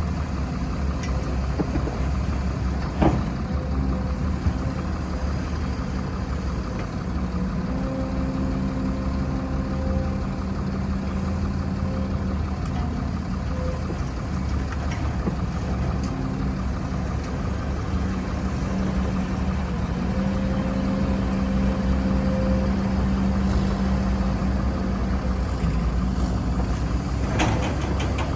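Excavator's diesel engine running steadily at working revs, its pitch shifting as the load changes, with a sharp knock about three seconds in and another near the end.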